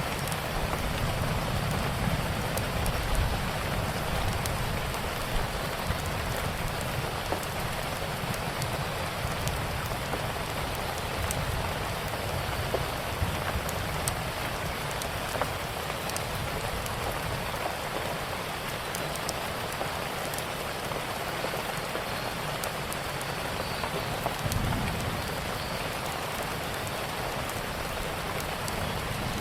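Steady rain falling, with scattered sharp crackles and pops from a wood fire and a short low rumble about 25 seconds in.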